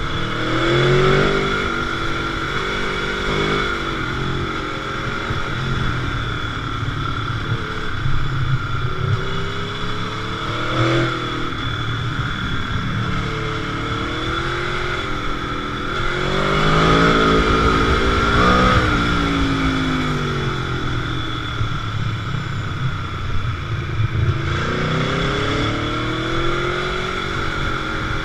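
Motorcycle engine riding under load, its revs rising and falling again and again as the bike accelerates and slows.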